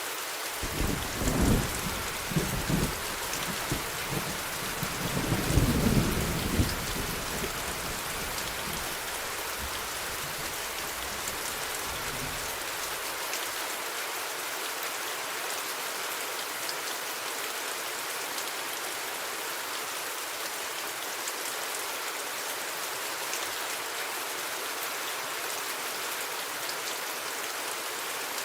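Steady rain falling, with a thunder rumble in the first few seconds that peaks about six seconds in and dies away by about halfway through.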